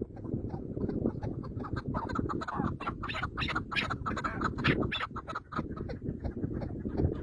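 Birds calling, a quick run of many short, repeated calls over a steady low rumble.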